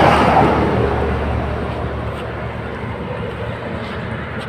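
Truck engine running with a steady low drone; a louder rush of noise fades away over the first second.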